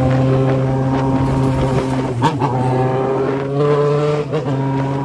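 Yamaha XJ6 motorcycle's inline-four engine running steadily under way, its pitch rising slowly. There is a brief sharp knock about two seconds in.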